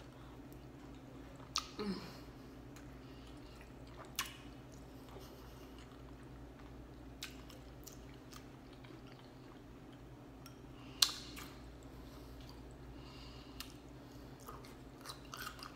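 Close-miked chewing and mouth sounds of someone eating chicken pot pie, with a few short sharp clicks, the loudest about eleven seconds in.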